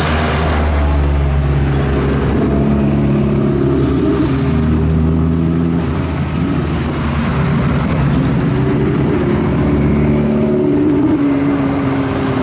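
Racing car engine running hard on a hillclimb, its note shifting in pitch a few times as it revs.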